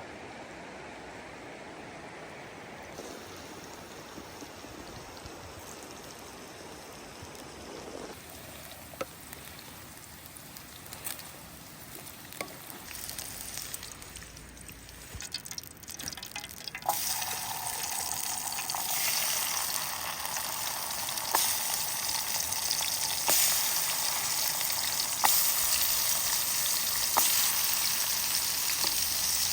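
Food frying in hot fat in a pan over a campfire: a steady hiss at first, then a louder sizzle from about halfway through that keeps growing, with scattered sharp pops.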